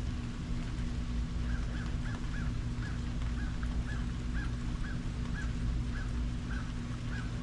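A bird calling over and over, short calls about two a second that begin about a second and a half in, over a steady low hum and background hiss.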